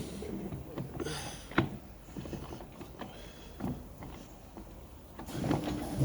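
Scattered metal knocks and clinks of Turbo 400 transmission parts being handled and worked loose, with a brief scrape about a second in. A louder steady rumble comes in near the end.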